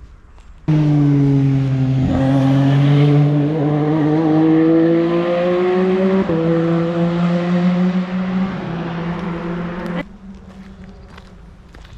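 Formula One car engine accelerating, its pitch climbing steadily with a gear change about six seconds in. It starts and cuts off abruptly.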